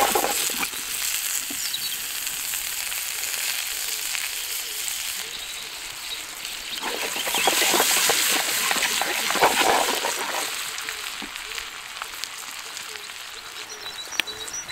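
Potato chunks and a melting knob of butter sizzling as they fry in a frying pan, the sizzle swelling louder for a few seconds about halfway through.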